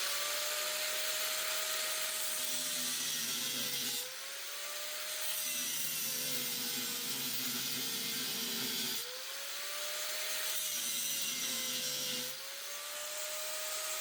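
Angle grinder with a cutoff wheel cutting into a stuck exhaust fastener: a steady whine over the hiss of the cut. Its pitch sags under load and recovers three times, about 4, 9 and 12 seconds in.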